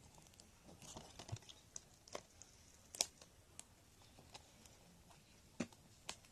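Plastic shrink wrap being torn and peeled off a DVD case. It gives faint crinkling with scattered sharp clicks, the sharpest about three seconds in.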